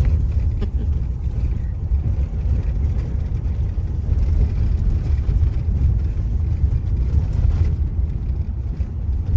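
Steady low rumble of a car driving along, heard from inside the moving vehicle: road and engine noise.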